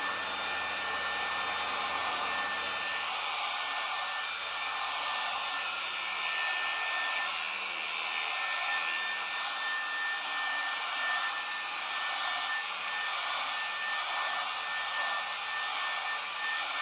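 Remington HC6550 cordless vacuum hair clippers running steadily while cutting hair, the motor and built-in vacuum making a steady whir with a thin, high, constant whine.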